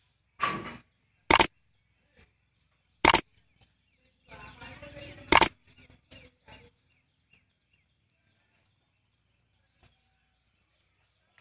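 Three sharp, loud knocks about two seconds apart, with a brief bird-like call just before them. Then near silence.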